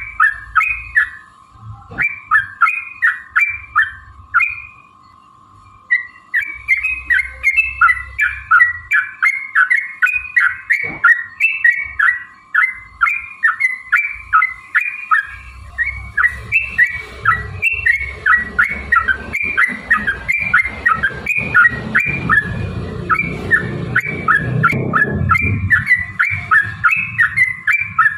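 Yellow-vented bulbul singing a long, fast run of short bubbling chirps, about three or four a second, with a brief pause about five seconds in. A low rumbling noise sits under the song through the second half.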